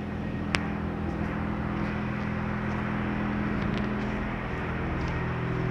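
Automatic car wash equipment running: a steady machine hum under a constant hiss of water spray, with a single sharp click about half a second in.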